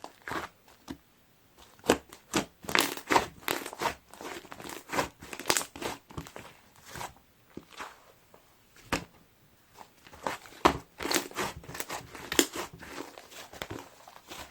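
Pink styrofoam-bead (popcorn) slime being squeezed and pressed by hand, crunching and crackling in irregular clusters of quick pops, with a couple of short pauses.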